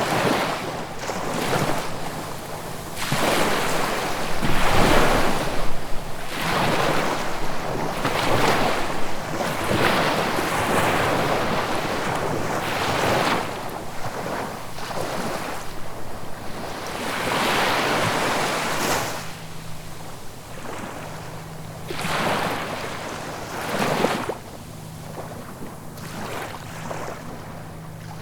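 Ocean surf: waves break and wash in, one rushing swell after another, each a few seconds long with quieter lulls between.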